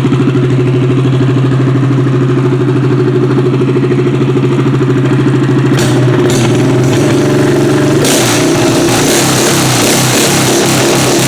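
Small go-kart/mini-bike engine running at a steady idle through a bare header pipe with no muffler, giving a deep, open exhaust note. From about eight seconds in, a hiss joins it and the note wavers unevenly.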